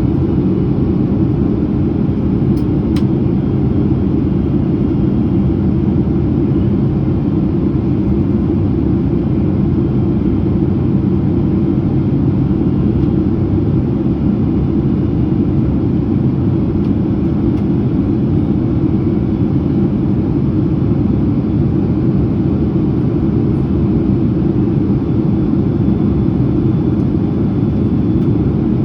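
Steady in-cabin noise of a Boeing 767-300ER airliner in descent: a constant deep rumble of engines and airflow.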